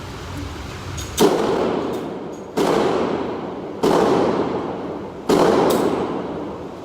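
Four gunshots fired at a steady pace, about a second and a half apart, each followed by a ringing echo that dies away.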